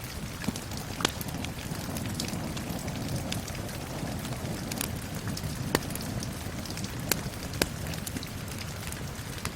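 Crackling wood fire in a fireplace, giving off several sharp pops, the loudest about a second in and just before six seconds in. Under it runs the steady hiss of falling rain.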